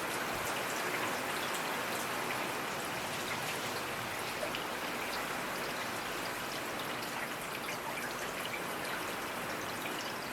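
Steady rainfall, with many separate drops pattering distinctly against a hiss of rain.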